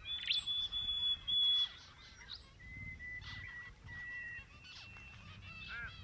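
Birds calling: long, thin, steady whistled notes at a few different pitches, then a quick run of short rising-and-falling calls near the end.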